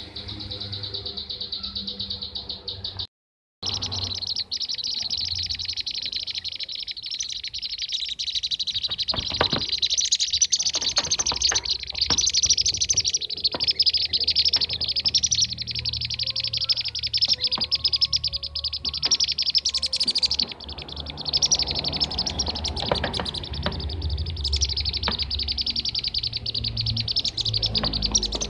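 Bee-eaters (kirik-kirik) calling in a dense, rapid, near-continuous chatter at one high pitch, played as a lure recording. The chatter is broken once by a brief silent gap about three seconds in.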